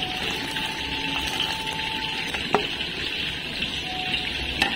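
Steady sizzling hiss of spiced chicken frying in oil in a wok, with two sharp knocks about two seconds apart.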